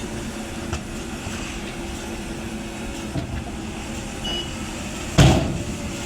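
Diesel engine of a JCB 3DX backhoe loader running steadily, with one loud thump about five seconds in.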